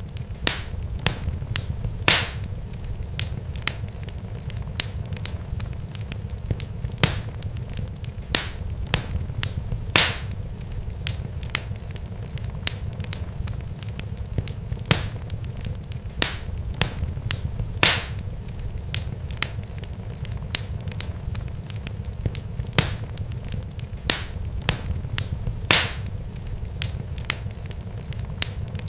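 Fire crackling: irregular sharp pops and snaps, a few of them louder, over a steady low rumble.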